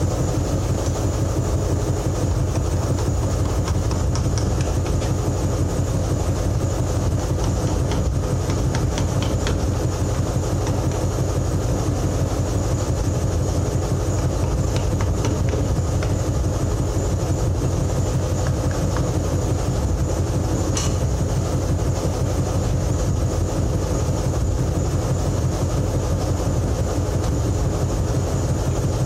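Steady low mechanical rumble of a running engine, unchanging throughout, with a few faint clicks.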